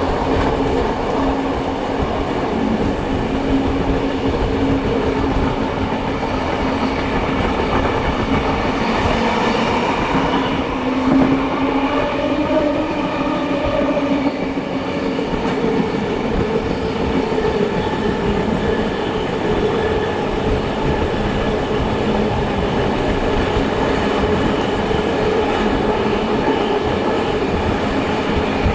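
Steam-hauled heritage train on the move, heard from on board: a steady rumble of carriage wheels running on the rails.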